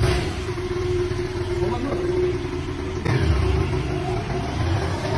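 Yamaha Tracer 700's 689 cc parallel-twin engine running at low revs as the motorcycle is ridden off slowly. About three seconds in the engine note gets louder.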